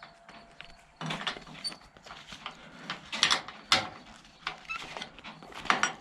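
Irregular knocks and clatters from the trailer being loaded, the loudest a few seconds in and again near the end, with a few short high chirps among them.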